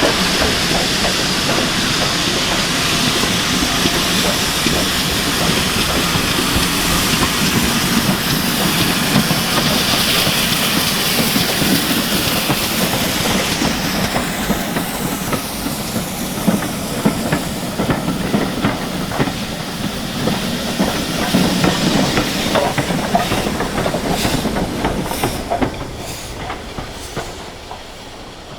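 Steam train passing: a loud steady hiss of steam, then wheels clacking over rail joints as the train draws away and fades.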